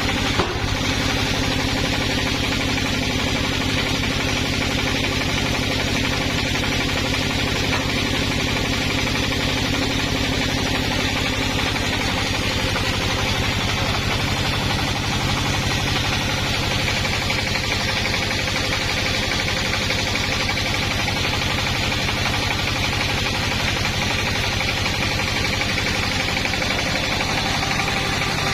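An engine running steadily at an even speed, with a brief knock just after the start.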